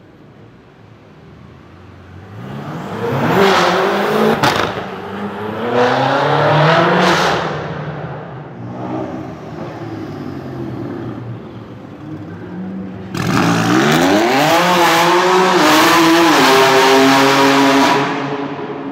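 High-performance car engines accelerating hard, rising in pitch as they pull away in a few separate runs, with a sharp crack about four and a half seconds in. A quieter stretch in the middle, then a sudden loud burst of revving near the end that climbs steadily and falls away at the close.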